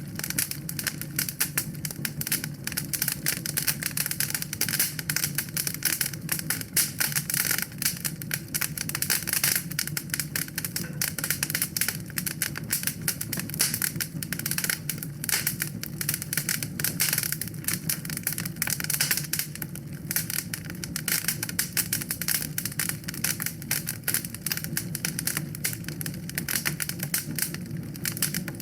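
Wood fire burning in a fireplace, crackling with dense, irregular pops and snaps over a low steady rumble of flame.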